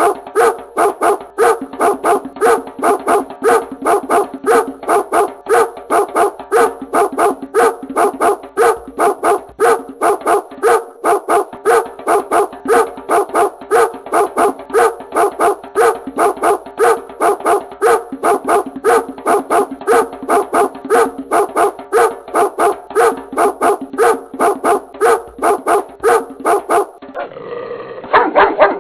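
Dog barking over and over in a very even rhythm, about two to three barks a second. About two seconds before the end it gives way to a duller, muffled sound.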